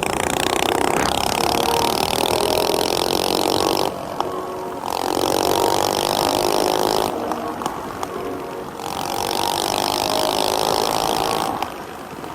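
Tillotson 212 single-cylinder engine on a mini bike running at high revs, easing off briefly twice and pulling up again.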